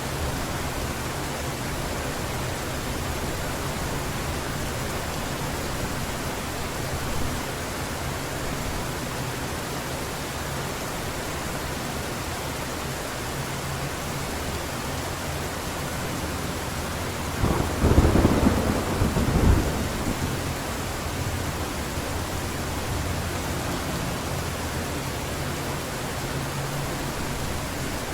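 Heavy rain falling steadily, with a clap of thunder rumbling for about two seconds past the middle.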